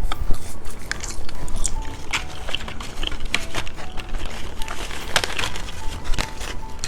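Scattered crisp crackles and clicks close to the microphone as small candy fries are handled and crunched, over faint background music.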